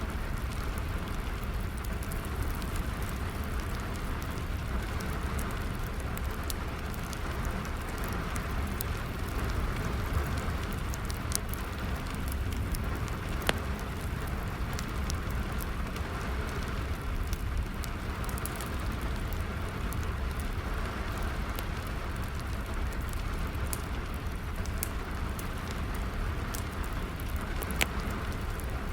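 Steady rain falling, with a wood fire crackling through it in scattered sharp pops, a few louder than the rest.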